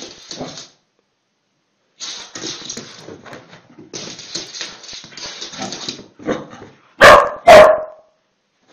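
Dogs barking and yapping at a lemon half held out in front of them, with two loud barks close together near the end.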